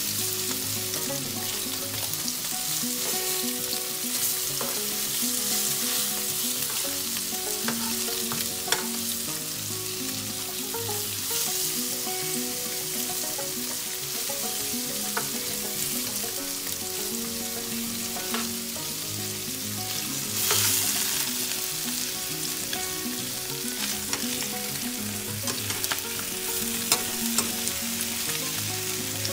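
Paneer pieces shallow-frying in oil in a nonstick pan, sizzling steadily, with a few sharp clicks of a metal spatula against the pan as the pieces are turned over.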